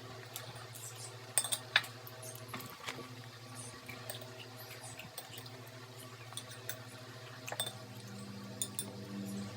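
Scattered light clinks and taps of utensils against dishes during eating, over a steady low hum.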